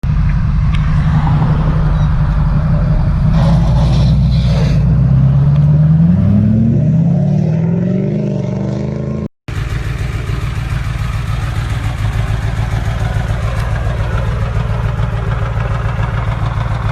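Diesel truck engines running loud. For the first nine seconds one engine pulls hard, its pitch climbing, dropping back and climbing again like gear changes. After a brief cut, a heavy engine runs steadily with a deep, even pulse.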